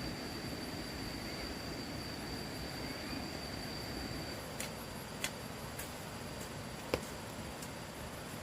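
Steady background hiss with a thin, high, steady tone that stops about halfway through, followed by four short, sharp clicks.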